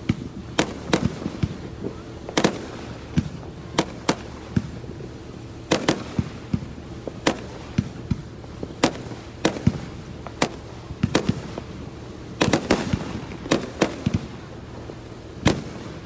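Aerial fireworks display: a run of sharp bangs from shells launching and bursting, irregularly spaced about one or two a second, with a quick cluster of bangs about twelve seconds in.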